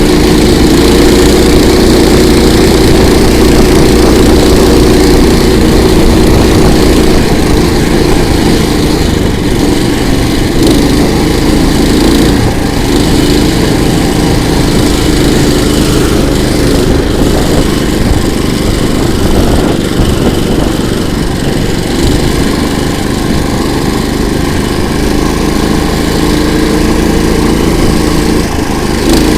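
Small single-cylinder petrol engine of a KOiRA all-season motorized towing unit running steadily under way.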